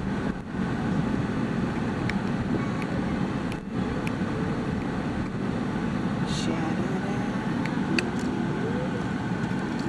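Steady low rumble of a car driving, with faint voices now and then.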